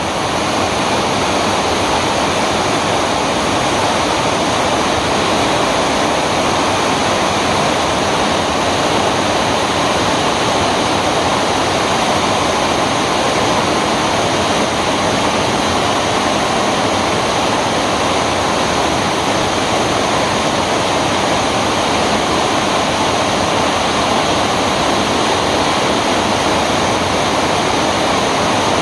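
Steady rainfall, a dense, even hiss without let-up.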